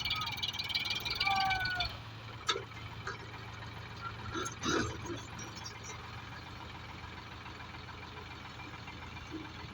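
A dense, pulsing chorus of calling animals for about the first two seconds, then it stops. A low steady hum runs underneath throughout, with a few faint knocks later on.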